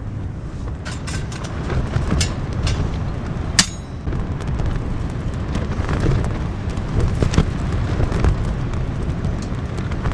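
Strong wind buffeting the microphone as a low, fluctuating rumble, with scattered light clicks and one sharper click about three and a half seconds in.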